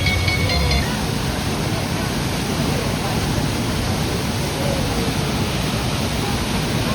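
Waterfall pouring: a steady, even rush of falling water. Background music cuts off about a second in, leaving the water alone.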